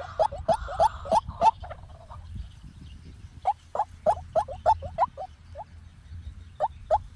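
White-breasted waterhen calling: runs of short, rising croaking notes about four a second, in three bursts with pauses between.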